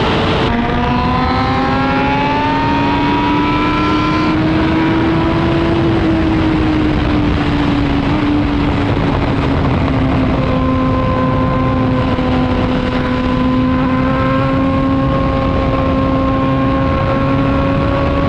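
Suzuki GSX-R1000R's inline-four with an Arrow exhaust pulling hard at highway speed, under heavy wind rush. About half a second in its note drops with an upshift, then climbs for a few seconds and holds a steady high note.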